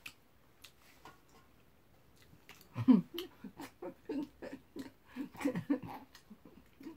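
Faint clicks of chopsticks against the pan, then from about three seconds in, chewing a mouthful of grilled shiitake mushroom: irregular wet smacks and clicks, several a second.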